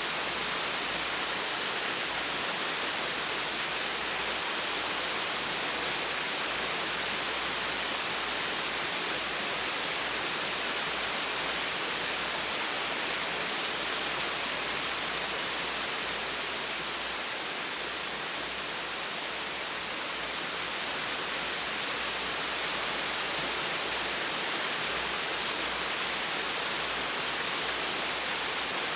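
Small, gentle waterfall splashing steadily: an even, bright rushing hiss that eases a little for a few seconds past the middle and comes back.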